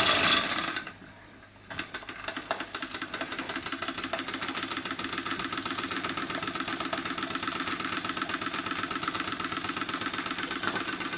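Small model engine running steadily with a rapid, even beat. A brief lull comes about a second in.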